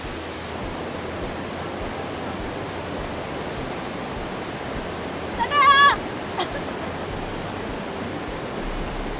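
Steady rushing of a large waterfall. About five and a half seconds in, a short high wavering call rises above it, followed by a brief falling note.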